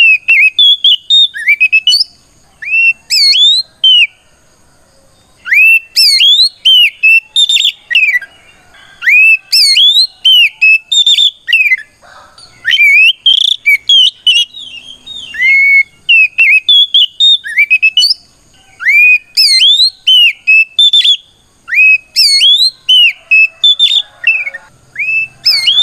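Oriental magpie-robin (kacer) singing a loud, fast series of clear whistled notes, many sweeping up in pitch, in phrases broken by short pauses. This is its 'ngeplong' fighting song, a territorial challenge that calls out a rival.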